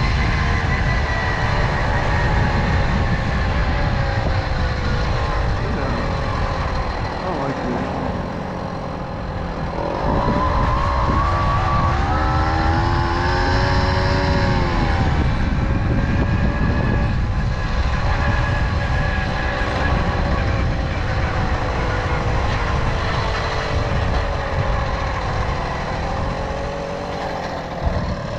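Tomos Silver Bullet moped's small two-stroke engine running under way, its pitch rising and falling with the throttle, with a sharp climb about ten seconds in. Heavy wind rumble on the microphone from riding runs under it.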